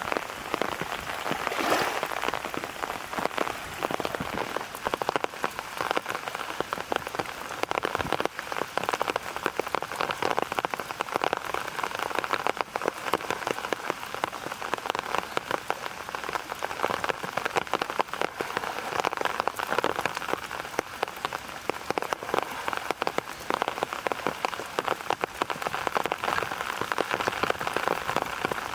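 Heavy rain of an approaching typhoon pattering steadily, a dense stream of drops striking close to the microphone.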